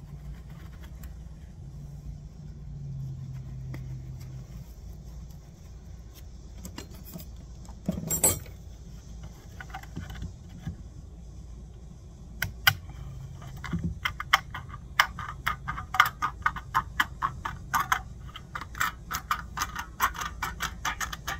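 Thin metal shim stock being cut by hand with snips: after a single clatter near the middle, a run of short metallic snips, about three a second, over a low steady hum.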